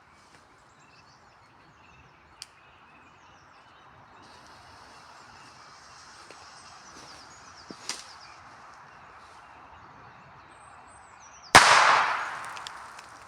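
A firecracker goes off with a single sharp bang near the end, the sound dying away over about a second. Birds sing faintly before it.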